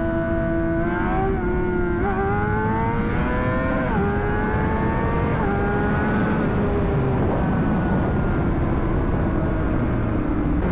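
Honda CBR600RR's inline-four engine accelerating hard through the gears. Its pitch climbs and drops back at each of four quick upshifts, then settles to a steady cruise, with heavy wind rush over the helmet throughout.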